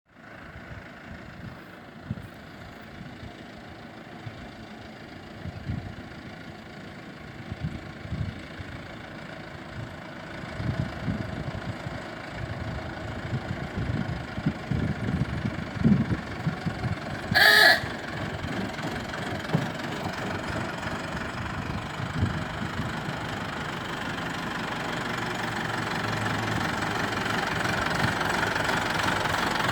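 Tractor engine running with an uneven low knock, growing steadily louder as it approaches. A brief high tone sounds once about two-thirds of the way through.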